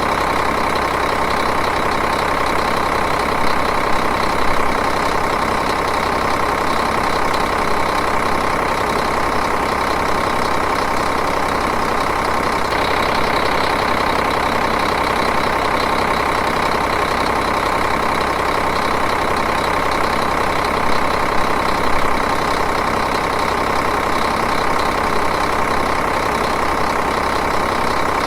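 Diesel engine idling steadily, with two brief, slightly louder patches.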